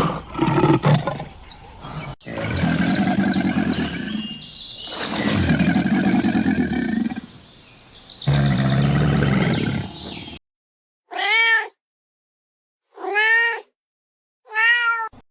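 Animal calls: several long, loud, pitched calls over the first ten seconds, then three short calls that rise and fall in pitch, each cut off by dead silence.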